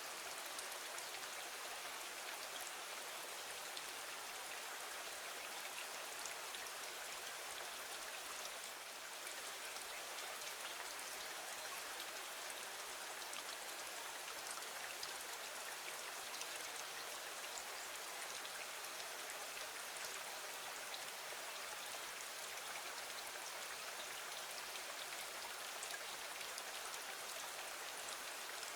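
Steady rain, an even patter of many fine drops that holds at one level throughout.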